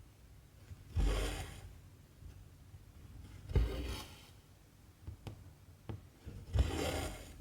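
Cotton embroidery thread pulled through 14-count cross-stitch fabric three times: each a short swish with a soft thump at its start, about three seconds apart, with a couple of faint ticks in between.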